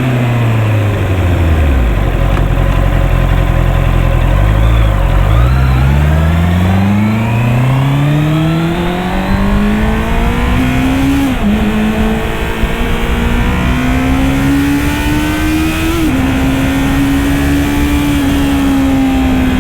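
Honda CB650R's inline-four engine slowing down, then accelerating with a steadily rising pitch. The pitch drops suddenly twice, at upshifts, before the engine settles into a steady cruise near the end.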